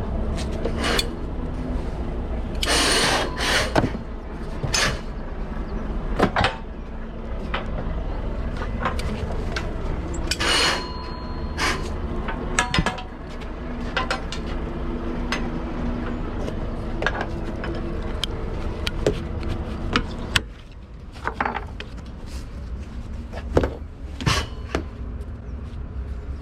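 Irregular knocks, clicks and clatter over a steady low hum.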